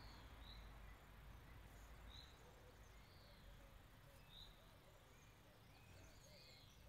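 Near silence: faint bird chirps, short rising-and-falling notes about once a second, over a low steady background rumble.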